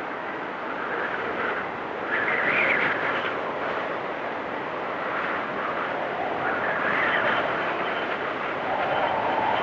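Blizzard wind blowing in gusts: a steady rushing with swells that rise and fade every few seconds, the strongest about two and seven seconds in, and a lower-pitched gust near the end.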